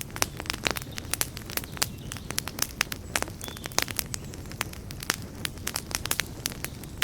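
Wood campfire burning with irregular sharp crackles and pops over a steady low rumble of flames, and a brief faint high whistle about three seconds in.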